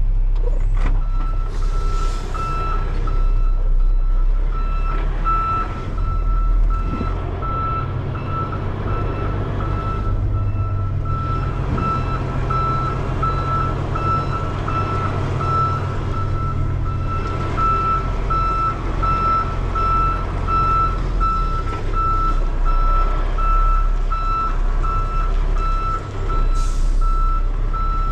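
Semi truck reversing a trailer into a loading dock: its backup alarm beeps on one steady repeating tone over the low running of the diesel engine, with short hissing bursts about two seconds in and again near the end.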